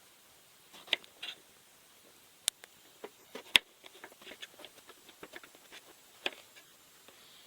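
Kitchen knife cutting an eggplant on a cutting board: a string of sharp taps and crisp cuts, the loudest about a second in and around two and a half and three and a half seconds, then a run of quicker, lighter chops.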